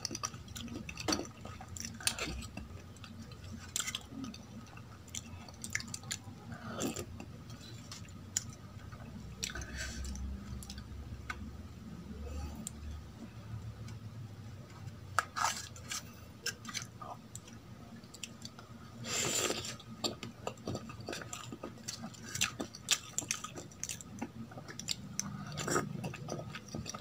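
Close-up chewing and mouth sounds of eating soft idli soaked in sambar, with scattered clicks of a steel spoon against a steel bowl.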